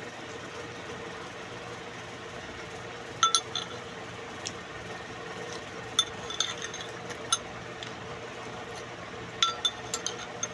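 Metal eating utensils clinking against dishware in short, scattered taps while someone eats a meal. A faint steady hum runs underneath.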